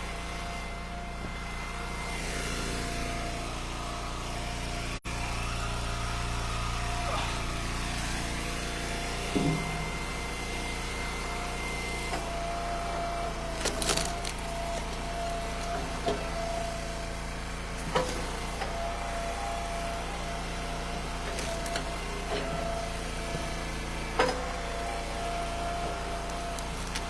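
Wood splitter's small gas engine running steadily with a constant whine, and a few sharp knocks of split firewood pieces.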